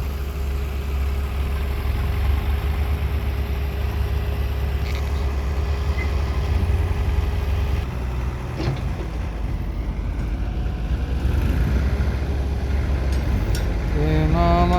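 Heavy diesel engine running steadily with a deep low rumble, its revs holding even. Near the end, music with a melody comes in over it.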